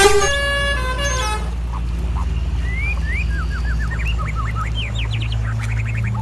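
Birds chirping in quick rising notes over a steady low engine rumble, after a few musical notes fade out in the first second and a half.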